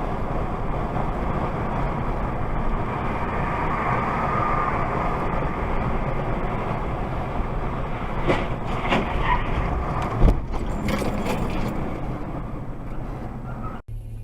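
Car on the move: steady road and engine noise, with a few knocks and one sharp, loud thump about ten seconds in.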